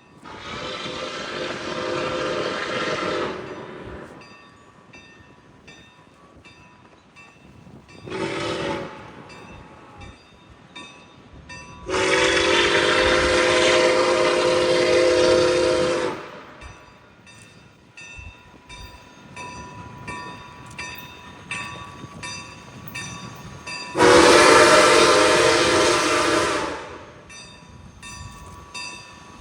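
A locomotive's multi-note air horn sounding a series of blasts: a long one at the start, a short one about eight seconds in, and long ones around twelve seconds and near the end. Faint regular clicking runs between the blasts.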